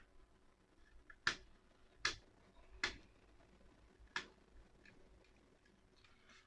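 Four short, sharp clicks, irregularly spaced over about three seconds: small laptop parts being handled by hand during disassembly.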